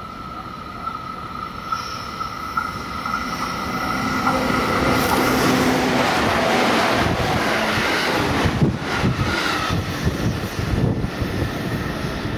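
A 211 series electric multiple-unit train coupled to a 313 series set passes close by at speed. Its rumble builds as it approaches and is loudest about halfway through. Wheels knock over the rail joints in rapid clatters near the end, then the sound drops away as the train leaves.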